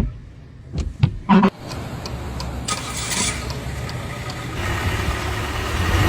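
A few sharp clicks, then a car engine comes on about a second and a half in and runs steadily, growing louder toward the end.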